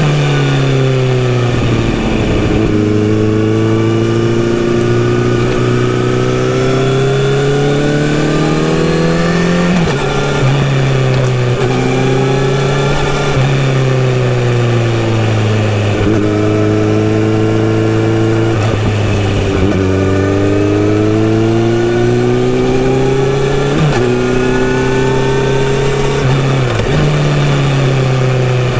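Kawasaki Z900RS inline-four with a full-system sports exhaust, under way on the road. The engine note rises and falls in pitch with the throttle, dropping sharply several times as it shifts gear or rolls off.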